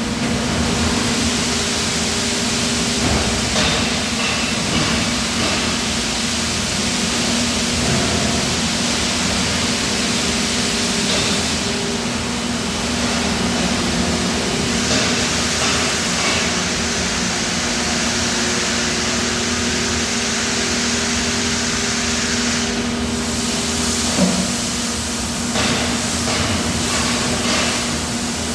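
Steady drone of factory machinery, a die casting machine's running hum, with a few light clanks and one sharper knock about 24 seconds in.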